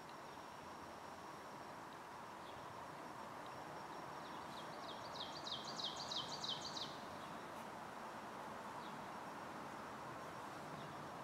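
A songbird sings a quick run of about a dozen short falling notes lasting about two seconds, a little before the middle. A few faint single chirps come before and after it, over a steady faint outdoor hiss.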